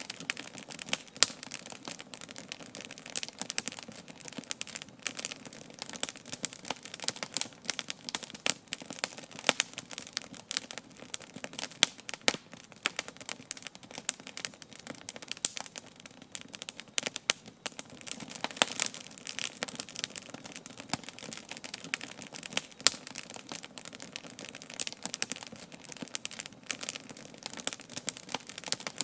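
Wood fire crackling and popping: a dense, irregular stream of sharp snaps over a soft hiss, some pops louder than the rest.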